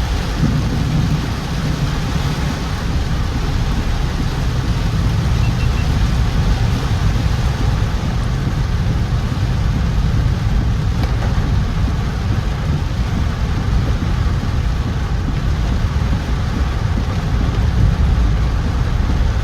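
Car driving through heavy rain: a steady hiss of rain and wet road noise over a constant low rumble.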